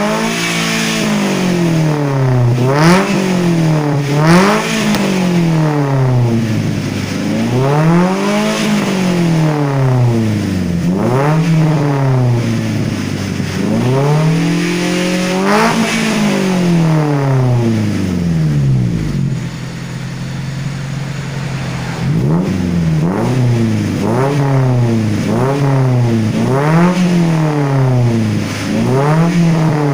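Toyota Avanza's four-cylinder engine revved over and over through an aftermarket 4-1 header and racing muffler, the note rising and falling with each blip of the throttle. About two-thirds through it drops to idle for a few seconds, then a run of shorter, quicker blips follows.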